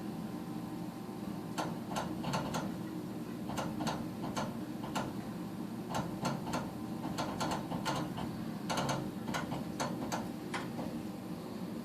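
Gas furnace that does not fire on every cycle, running with a steady motor hum while sharp clicks come irregularly, in clusters, through most of the stretch.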